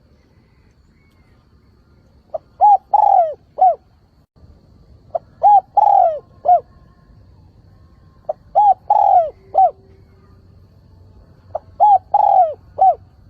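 A decoy spotted dove gives its calling coo four times, about three seconds apart. Each phrase is a quick faint note followed by three coos, and the middle coo is the longest and falls in pitch at its end.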